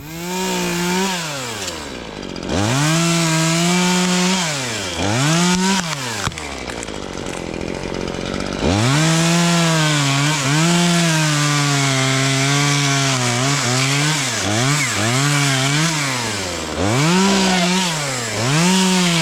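Chainsaw cutting tree branches, revved up and down in repeated bursts and easing back between them, with a longer drop to idle about six seconds in before it revs up again.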